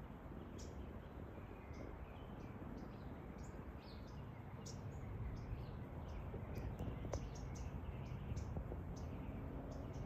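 Birds chirping in many short, high notes, scattered irregularly, over a low background rumble.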